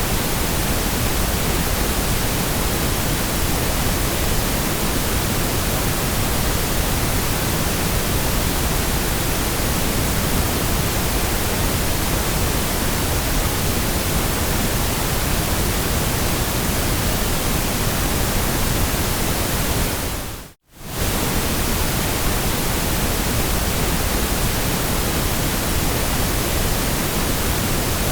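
Steady, even hiss of generated white noise that spreads evenly across all pitches, briefly fading out to silence and back in about twenty seconds in.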